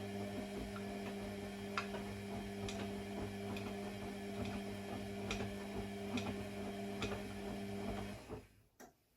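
A small electric motor hums steadily, with irregular light ticks over it, and cuts off about eight seconds in. A single click follows just before the end.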